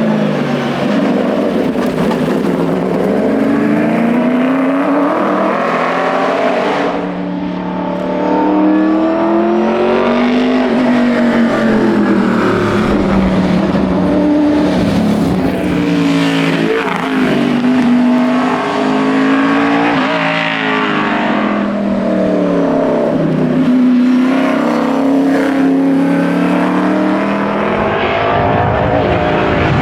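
1980 Ford Falcon XD Phase 5 rally car's engine being driven hard, its pitch climbing under acceleration and dropping again every few seconds as it goes through the gears and lifts for corners.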